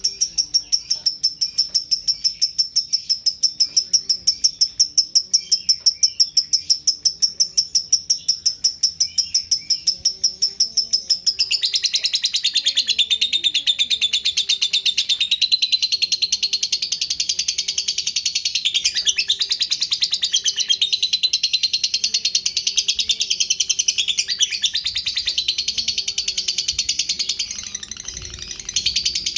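Lovebird singing a long, unbroken chirping song, the long-duration 'ngekek' that Indonesian bird keepers breed and condition for. For about the first 11 seconds it is a fast, even string of high chirps, then it turns into a denser, rapid chatter that carries on without a break.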